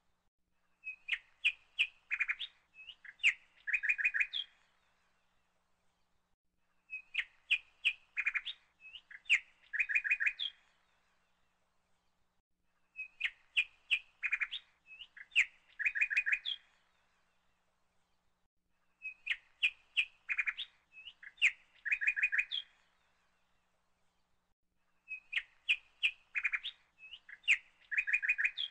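Bird chirping: a phrase of quick, sharp chirps about three and a half seconds long, repeated exactly every six seconds like a looped recording, with quiet gaps between.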